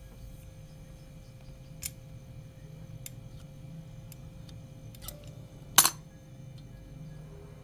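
A few sharp clicks and knocks, the loudest about six seconds in, over a steady low hum.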